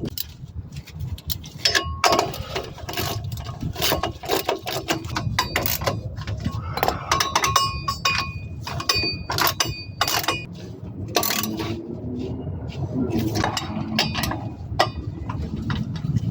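Irregular metallic clinks and knocks, some ringing briefly, from hand tools and metal parts being handled, over a steady low hum.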